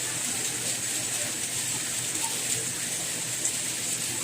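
Soft rain falling steadily: an even, bright hiss with no single drops or gusts standing out.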